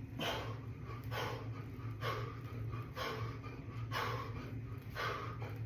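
A man breathing hard and rhythmically through push-ups, with a forceful breath about once a second, the pace of his reps late in a hard set. A steady low hum runs underneath.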